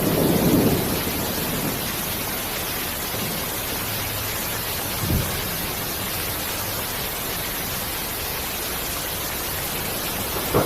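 Steady rain hiss, with a low rumble of thunder dying away in the first second or so and a brief low thump about halfway through.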